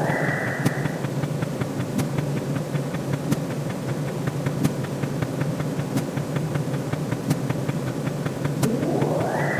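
Electronic sound effects over a steady low hum: a rising sweep that levels off at a high pitch at the start and again near the end, and sharp ticks about every second and a third.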